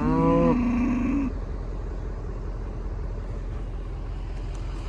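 A cow lowing once, a loud moo of about a second right at the start whose pitch bends and then holds low, over the steady low rumble of an idling truck engine.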